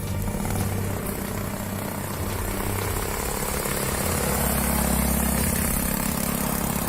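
A vehicle engine running steadily, growing somewhat louder for a couple of seconds past the middle.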